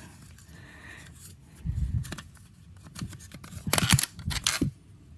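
Handling noises from a hand-held voltage tester being worked against refrigerator wiring: a few groups of sharp clicks and rustles, the loudest about two seconds in and again near the end.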